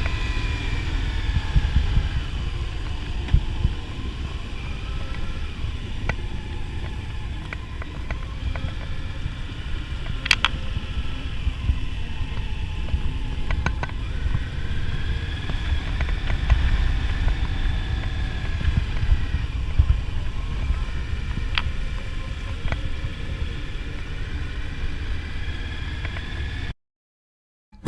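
Motorcycle being ridden at speed: steady engine and road rumble under heavy wind buffeting on the microphone, with the pitch rising and falling a little now and then. The sound cuts off suddenly about a second before the end.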